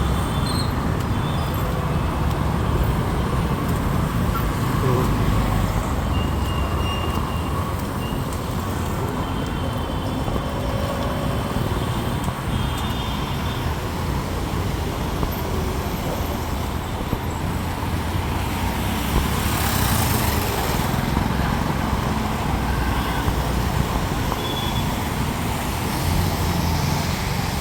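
Road traffic on a city street: a steady rumble of passing engines and tyres, with one vehicle passing louder about two-thirds of the way through.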